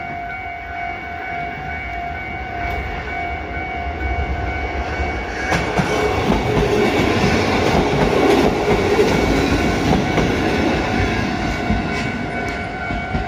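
Kotoden 1200 series electric train approaching and passing over a level crossing. Its running noise grows from about four seconds in and is loudest around the middle, with a few wheel clicks over rail joints near the end. The level-crossing warning alarm keeps ringing steadily throughout.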